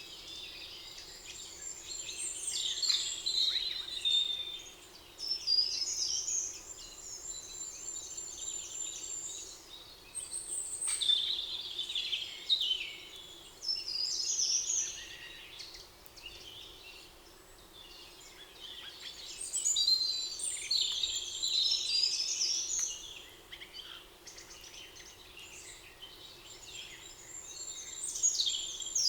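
Songbirds singing in a forest: high-pitched phrases of a few seconds each with quick trilled runs of notes, coming back every few seconds with short quieter gaps between.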